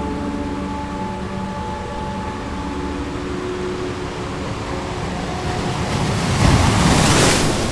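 Ocean waves washing steadily, then one wave swelling and breaking loudly near the end before dying away, under a soft sustained drone.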